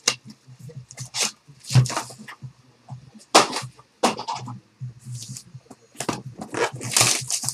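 Packs of 2013-14 Select Basketball trading cards being handled, their wrappers crinkling and rustling in a run of short, irregular bursts.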